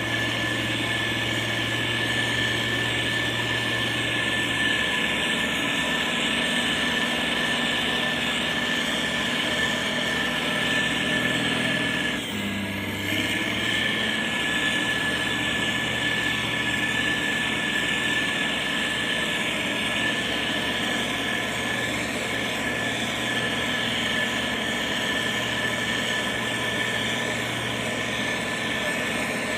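Heavy road-building machinery's diesel engine running steadily, with a constant thin whine over the engine hum. The sound drops briefly about twelve seconds in, then carries on as before.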